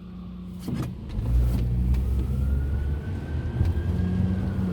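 Car engine speeding up about a second in and then running steadily under power, with a faint siren wailing slowly up and down.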